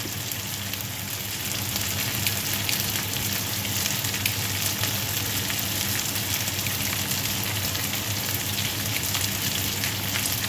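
Chicken pieces with carrots and potatoes sizzling in hot oil in a pan, a steady crackle of many fine pops.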